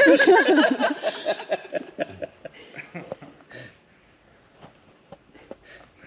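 A few people laughing, loud at first and dying away over a few seconds into scattered chuckles and small clicks.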